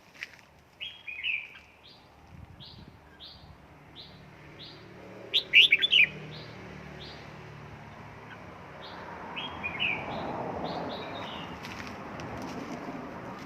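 Red-whiskered bulbul calling: a run of short high chips repeated about every two-thirds of a second, a loud burst of quick chattering notes about halfway, and more chirps later. A low rushing noise builds in the second half.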